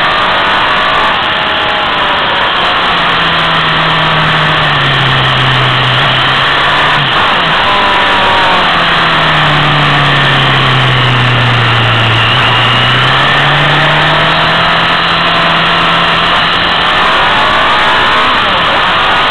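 Motorcycle engine running on the move, its note rising and falling as it accelerates and eases off through a series of bends, over a steady rush of wind and road noise.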